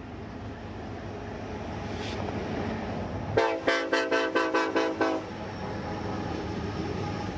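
Diesel locomotive air horn sounding a chord for a little under two seconds, starting about three and a half seconds in, over the growing rumble of an approaching train.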